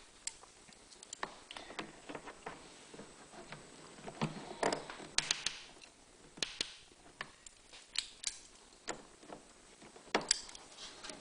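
Irregular sharp clicks and small taps of hand work as a hose clamp is fitted onto the fuel hose at the inlet side of an inline fuel filter, some clicks coming in quick clusters.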